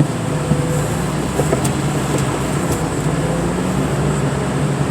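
Diesel engine of heavy car-crushing equipment running steadily, with a few faint ticks over it.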